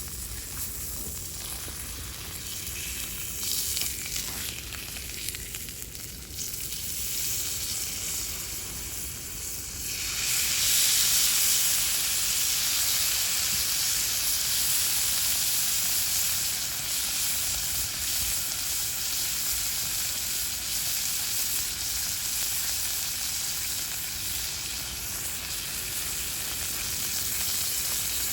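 Steak sizzling over a wood fire, a steady frying hiss that jumps suddenly louder about ten seconds in and stays loud.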